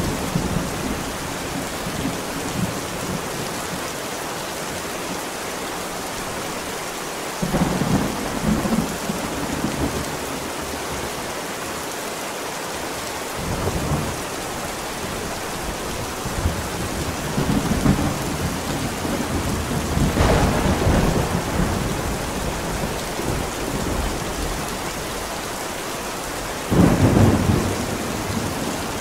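Thunderstorm: heavy rain falling steadily, with several low rolls of thunder rumbling through it, the loudest breaking in suddenly near the end.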